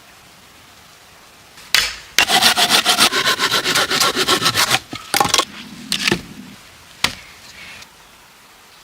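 Wood being scraped in a fast, even run of strokes for about two and a half seconds, followed by a few separate scrapes and a knock.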